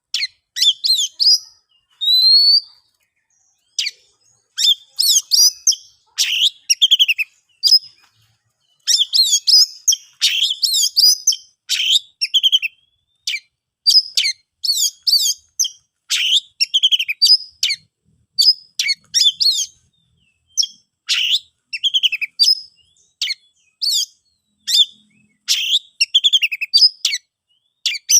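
Oriental magpie-robin singing a loud, varied song of short whistled and chirping phrases, one after another with brief pauses between.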